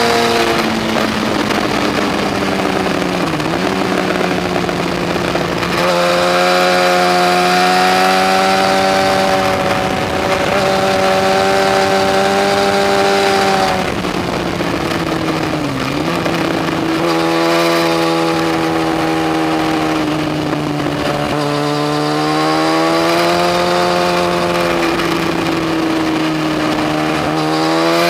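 Yamaha FZ1's inline-four motorcycle engine running hard on the move, its pitch holding steady for long stretches, dipping sharply and recovering about 3 and 16 seconds in, and climbing again near the end. A steady rush of noise runs under it.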